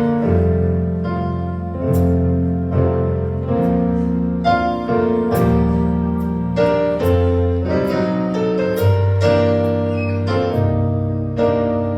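Piano-voiced keyboard playing slow sustained chords over a deep bass line, a new chord struck about every second.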